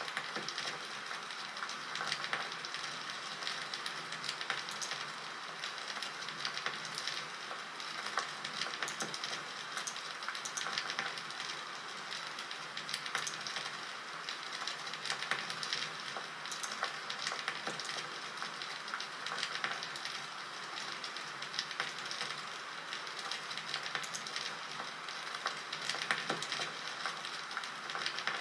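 Wood fire crackling: a steady hiss with irregular sharp pops and snaps.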